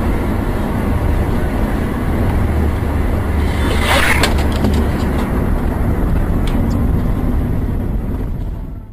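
Road and engine rumble of a moving car as picked up by a dash camera, steady and low, with a short burst of noise about four seconds in. The sound fades out near the end.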